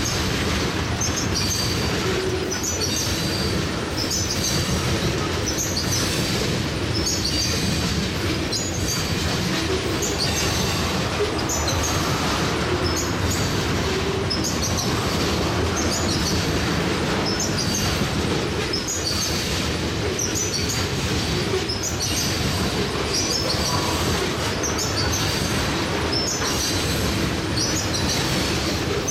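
Tank cars of a freight oil train rolling past close by: a steady rumble of steel wheels on rail, with a clickety-clack repeating about once a second as the wheel sets pass.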